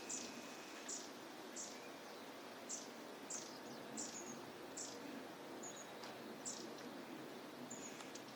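Long-tailed tits calling: a string of short, very high, thin calls, roughly one a second, with a few brief high piping notes between them, over steady low background noise.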